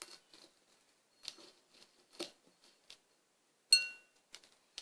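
Carrot slices being mashed around in bird seed in a small bowl: a few short, soft scraping rustles, then one sharp clink against the bowl a little before four seconds in, which rings briefly.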